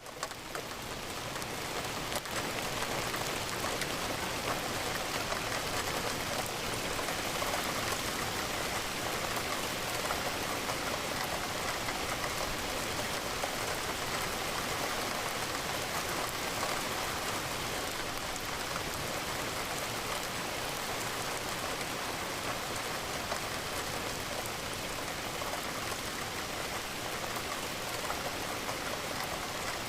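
Steady rain falling against a window, an even hiss of drops with no distinct single hits. It dips briefly at the very start and swells back within about two seconds.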